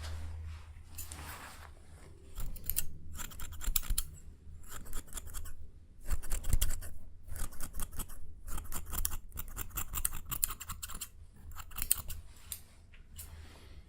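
Close-miked ASMR ear-cleaning sounds: runs of quick, crisp scratching and clicking strokes in short bursts with brief pauses, over a low steady hum.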